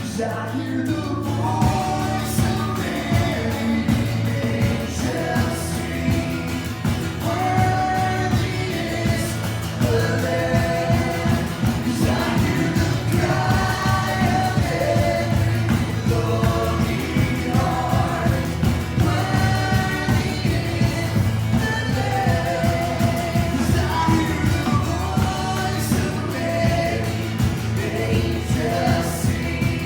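Worship song: voices singing a melody over a band with a steady beat.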